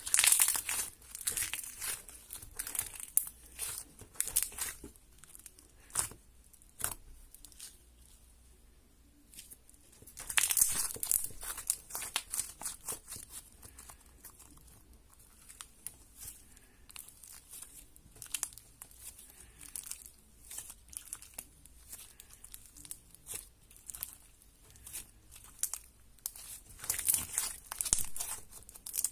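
Glitter slime being worked by hand, making sticky crackling and clicking sounds. The crackles come in busy runs at the start, about ten seconds in and near the end, with sparser clicks between.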